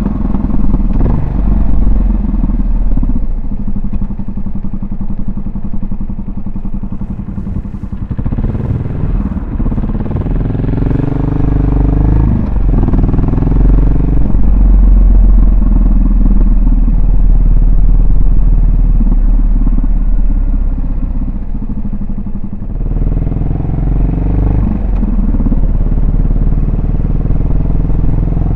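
Yamaha SR400's air-cooled single-cylinder four-stroke engine and exhaust on the move, running steadily at first, then revving up and dropping back several times through gear changes.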